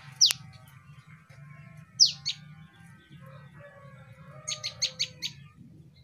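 Prenjak (prinia) chirping, sharp high falling notes: one at the start, another about two seconds in, then a quick run of five short chirps near the end. A faint low hum runs underneath.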